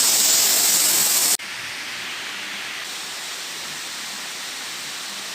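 Cham Chit waterfall's falling water making a steady rush. It drops suddenly to a quieter, similar rush about a second and a half in.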